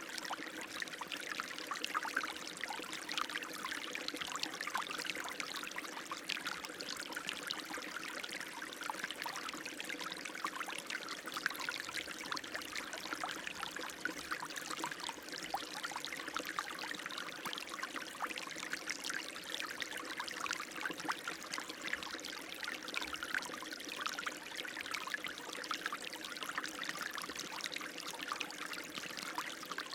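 Running water, a steady splashing and trickling flow.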